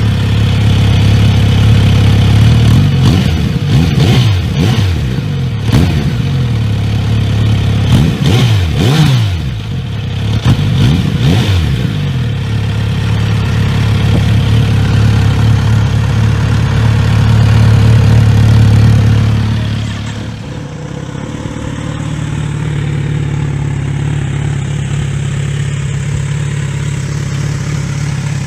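Kawasaki Z900RS inline-four motorcycle engine on an aftermarket exhaust idling, with several quick throttle blips in the first part that rev up and drop back. About two-thirds of the way through the sound changes to a quieter, steady idle.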